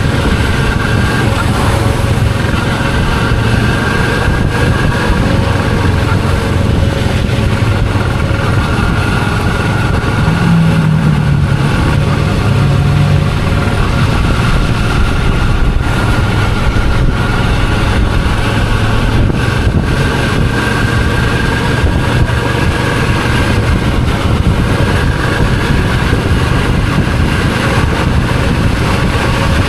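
Suzuki V-Strom 650's V-twin engine running under way, with steady road and wind noise. A brief low wavering tone comes in about ten seconds in.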